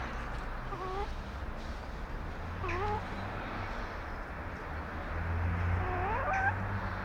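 Pekin bantam chickens calling: a short call about a second in, another near three seconds, and a longer call rising in pitch near the end, over a steady low hum.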